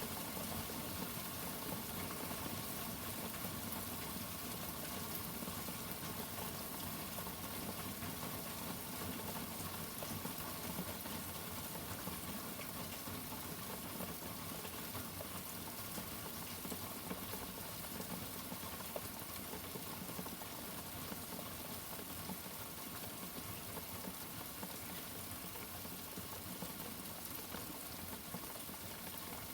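Steady rain: an even hiss with no thunderclap.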